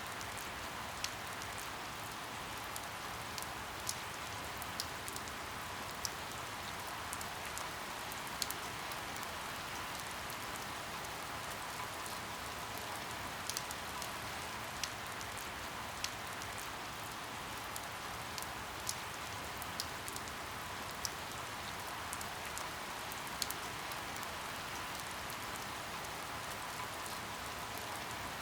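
Steady rain, an even hiss, with single heavier drops ticking sharply at irregular moments, about one every second or two.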